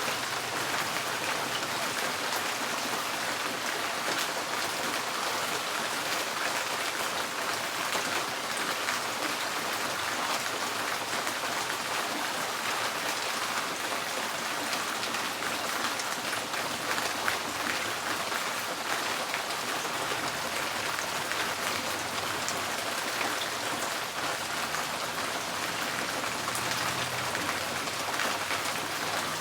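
Steady rain drumming on a tin porch roof, a dense patter of countless drops.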